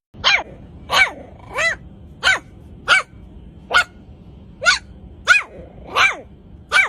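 A dog barking about ten times in an even rhythm, roughly one bark every two-thirds of a second, each bark short with a pitch that rises and falls.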